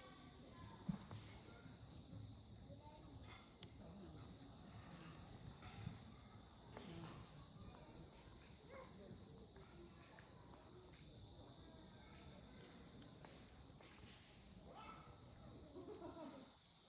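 Insects chirping steadily in even pulsed trains over a quiet wood campfire, whose burning logs give a few sharp pops, the loudest about a second in and near six seconds. Faint children's voices in the distance near the end.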